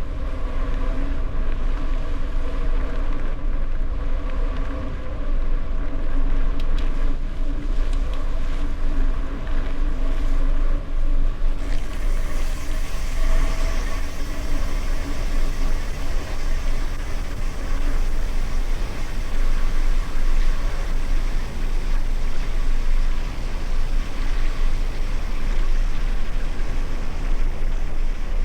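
Wind rushing over the microphone of a rider's camera on a gravel bike in motion, a heavy steady rumble with tyre noise. The hiss grows louder about twelve seconds in.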